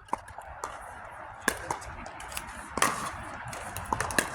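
Pickleball paddles striking a plastic ball in a rally: sharp pops at uneven intervals, the loudest about a second and a half in and near three seconds in, with a quick pair near the end.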